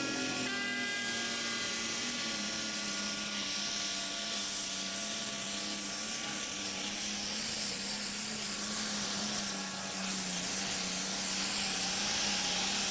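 Competition pulling tractor under full power during a pull, its engine holding a steady note beneath a loud hiss and a high-pitched whine. The sound dips briefly near ten seconds, then picks up again.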